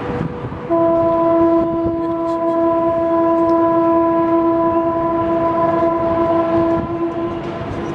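An SS8 electric locomotive's horn sounds one long, steady blast of about seven seconds, starting about a second in. Under it is the low rumble of the train rolling.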